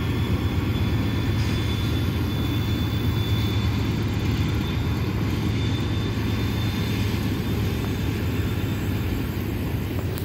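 Two diesel locomotives hauling a loaded coal train, their engines making a steady low rumble as the train rolls across a stone arch bridge.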